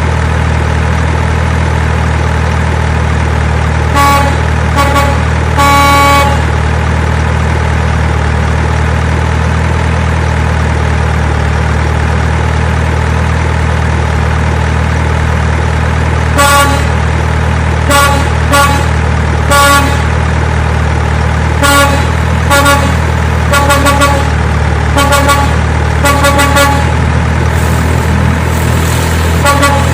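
Truck engine idling with a steady low drone, and a truck horn tooting in short blasts. Three toots come about four seconds in, then many more in quick clusters through the second half.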